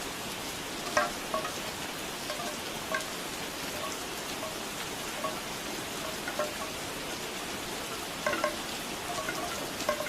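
Steady rain with bamboo wind chimes knocking now and then, in short scattered clacks, loudest about a second in and again near the end.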